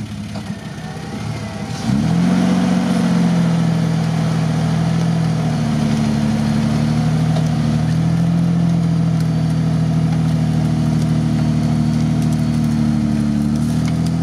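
Jeep Wrangler engine revving up about two seconds in and then held at steady, raised revs under load as the 4x4 crawls over fallen branches.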